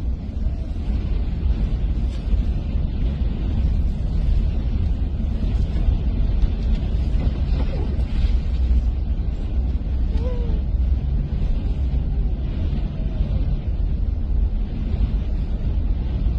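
Steady, loud low rumbling noise with a hiss above it, unbroken throughout, with a few faint brief tones in the middle.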